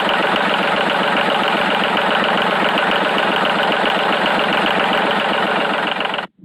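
Mini tractor's engine running steadily at idle with an even, rapid pulsing beat; the sound cuts off suddenly near the end.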